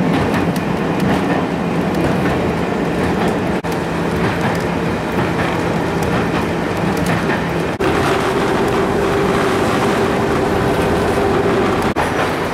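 A train running: a loud, steady rumble with a low hum. It is broken by three brief, sudden dropouts about four seconds apart, and after the second one the hum is higher.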